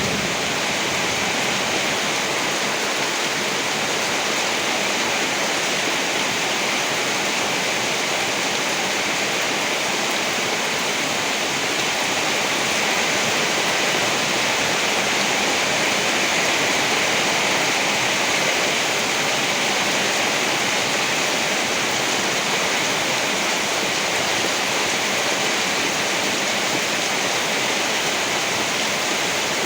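Heavy rain falling steadily, an even rushing hiss with no thunderclaps or gusts standing out.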